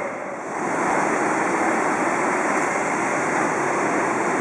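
Steady roar of a Boeing 777-300ER's cabin in flight: engine and airflow noise heard from inside the airliner, stepping up in level about a second in.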